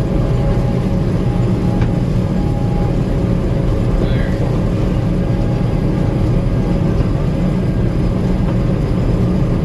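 Gleaner M2 combine running steadily under load while harvesting corn: a constant low engine and machinery drone with a few steady tones and no change in level.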